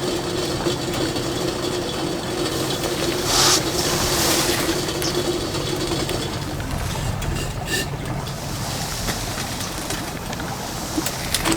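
Strong gusty wind rumbling on the microphone, with a steady hum through the first half and a few faint clicks near the end.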